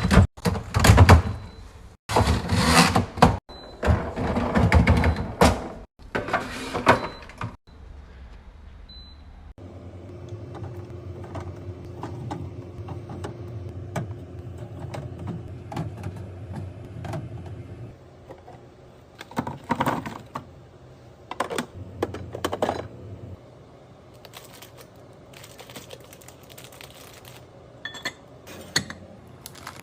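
Thunks, clicks and rattles of drink cans, bottles and containers being handled and set into a fridge. The first few seconds are louder and come in abrupt bursts, and after that the knocks are scattered over a steady low background.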